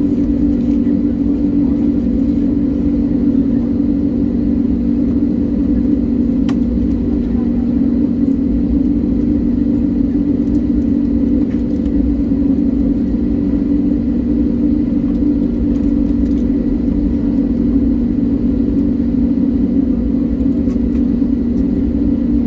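Airliner cabin drone on the ground before takeoff: a steady, loud low hum with an even rumble beneath it, and a single faint click about six seconds in.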